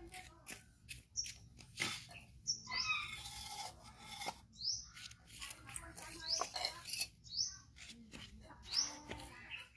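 A small bird chirping over and over, short rising chirps about once a second, with scattered light clicks and knocks.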